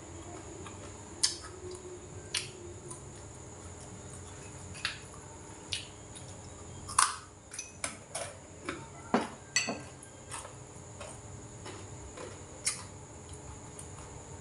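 Irregular sharp crunches of a hard, crisp bánh quai chèo (fried dough twist) being bitten and chewed. It is a hard, dense crunch rather than a light, airy one.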